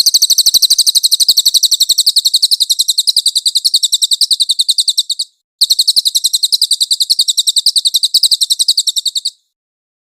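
A small songbird giving a fast, even, high-pitched trill of about a dozen notes a second, in two long runs with a short break about five seconds in.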